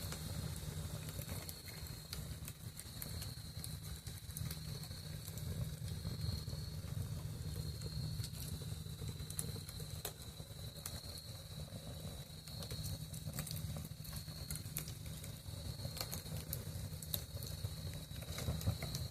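Campfire crackling, with sharp pops scattered throughout, over the steady high-pitched chirping of crickets.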